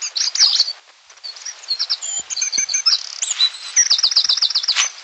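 Birds chirping and singing: many short high chirps and quick runs of repeated notes, one fast series of about eight notes near the end.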